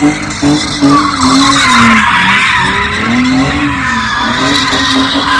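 A car doing donuts: the engine is held at high revs, its pitch rising and falling as the throttle is worked, over the continuous screech and hiss of the spinning rear tyres.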